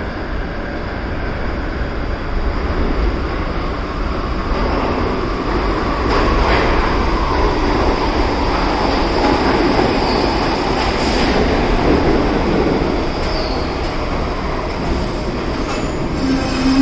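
An R62A New York City subway train rumbling along the steel rails through the station, with a thin, high wheel squeal that wavers in pitch around the middle. A steady low hum sets in just before the end.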